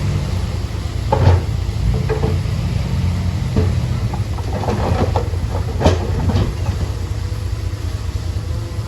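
Komatsu D31A bulldozer's diesel engine running steadily at a low pitch, with a string of clanks and rattles as it works the stone, the loudest about a second in and again near six seconds.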